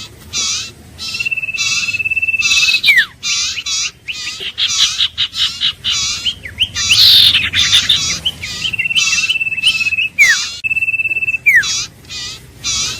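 Iora calling: quick bursts of high chirps repeated about twice a second, broken three times by a long, steady, drawn-out whistle that ends in a sharp downward slur.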